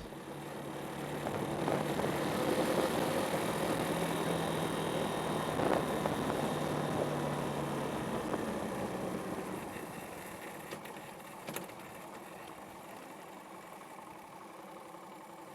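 Kawasaki D-Tracker 125's single-cylinder engine running at a steady speed, with a broad rush of road and wind noise; the sound grows quieter about ten seconds in.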